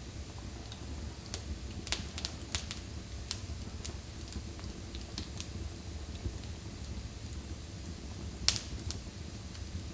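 Fire burning in a fireplace, crackling with irregular sharp pops over a steady low rumble; the loudest pop comes near the end.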